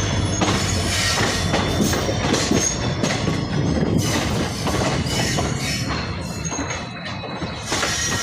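Train running along the track: a steady rumble with wheels clacking irregularly over the rails and thin, high wheel squeals. The sound eases slightly near the end.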